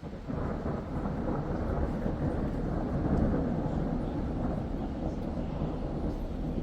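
Thunder starting abruptly just after the start and rolling on as a long, loud rumble from a graupel thunderstorm.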